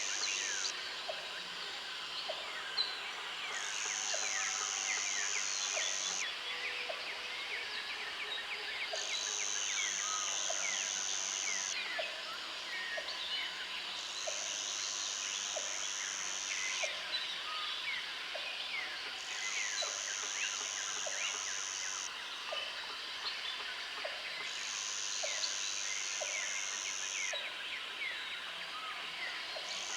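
Country trail ambience: many small birds chirping densely. A high, even buzz switches on and off in turns of about two and a half seconds, and soft ticks sound about once a second underneath.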